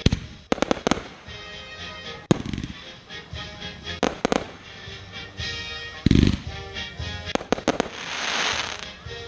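Fireworks display: aerial shells bursting with deep booms every couple of seconds, with sharp cracks and bangs between them and a burst of crackling near the end, over background music.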